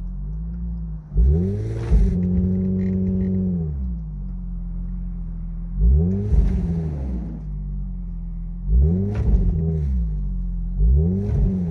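Infiniti FX35's 3.5-litre V6 revving up and dropping back again and again, in quick pairs of revs every few seconds over a steady low engine note.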